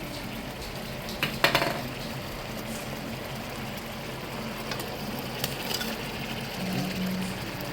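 A utensil clinking and scraping against a pan while food is stirred, with a sharp clank about a second and a half in and a few lighter clicks later, over a steady low hum.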